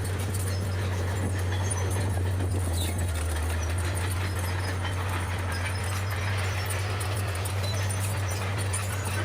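Bulldozer's diesel engine running at a steady pitch, with light clinking and rattling over it.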